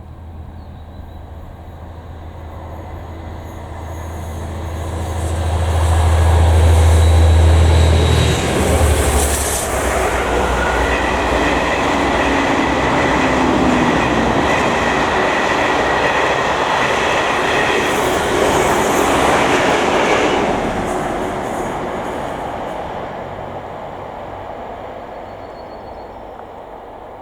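A Class 57 diesel-hauled passenger train passing at speed: the locomotives' low engine drone builds to a peak about seven seconds in, then the coaches roll by with steady wheel noise and high wheel squeal, fading away over the last several seconds.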